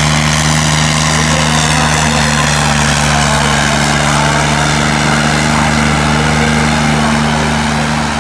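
New Holland 3630 tractor's diesel engine running loudly at a steady speed.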